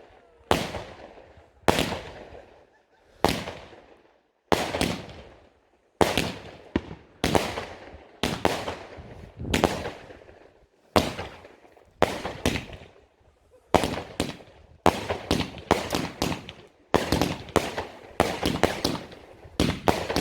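Fireworks going off in a steady series of sharp bangs, about one a second, each with a fading tail. The bangs come faster and overlap near the end.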